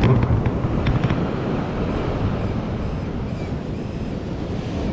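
Strong wind buffeting the microphone over ocean surf, with a few sharp clicks in the first second.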